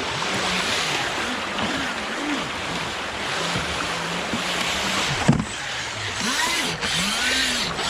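Steady rush of fast creek water, over which a Pro Boat River Jet radio-controlled jet boat's electric motor whines up and down in pitch again and again as the throttle is worked. A single sharp knock comes about five seconds in.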